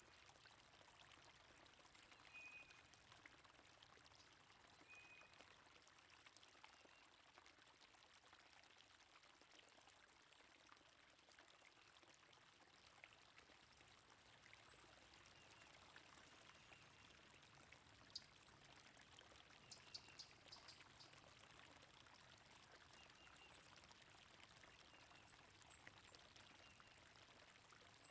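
Faint, steady flow of water in a stream, with brief bird chirps now and then.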